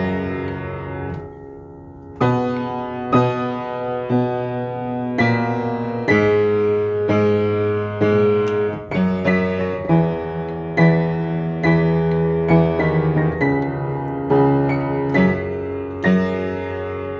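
Solo piano playing a slow piece, chords struck about once a second. The playing thins out a little after the start and comes back in about two seconds in.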